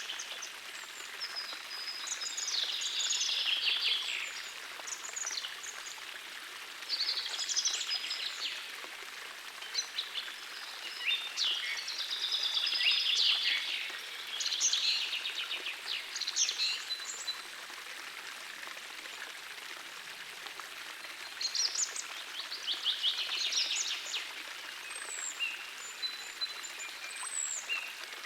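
Several phrases of bird song over the steady rush of a small forest stream. The birds sing in bursts with short pauses between them, and the water runs evenly underneath.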